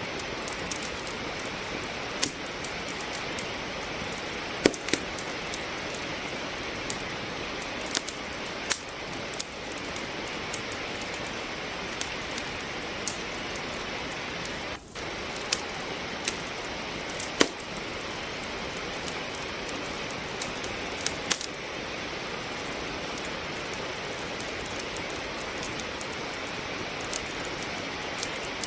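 Steady rain mixed with a wood fire crackling in a fireplace: sharp pops and snaps come at irregular moments over the even hiss of the rain, a few of them louder than the rest.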